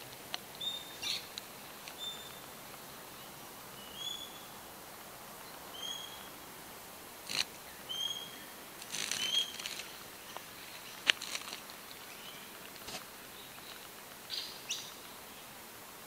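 A bird calling in the background with a short rising chirp about every two seconds, over a steady hiss, with scattered sharp clicks and brief rustles in between.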